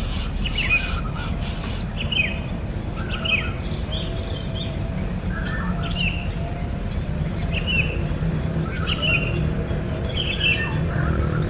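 A bird repeating short, falling chirps about once a second, over a steady, fast-pulsing high insect trill.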